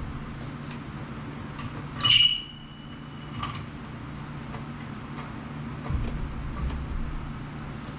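Metal clanks and clicks of a jack being handled and set up under a truck door: one sharp clang that rings briefly about two seconds in, a few lighter ticks, then a low scraping rumble near the end.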